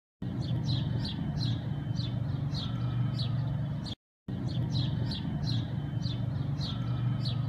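A bird chirping: short high calls that sweep downward, about two a second, over a steady low hum. The sound cuts to silence for a moment about four seconds in, and the same few seconds of chirps and hum then play again.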